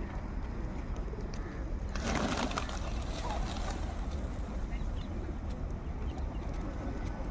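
Pigeons cooing over a steady low background rumble, with a brief loud burst of noise about two seconds in.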